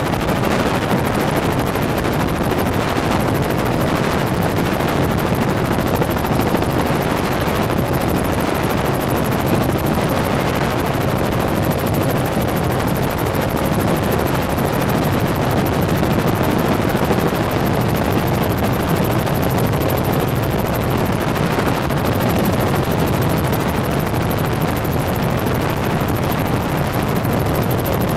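Helicopter turbine and rotor noise heard from aboard in flight, a steady loud drone that does not change.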